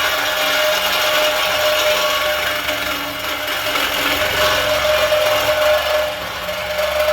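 Power tool cutting through the truck's metal exhaust pipe, running steadily with a constant whine.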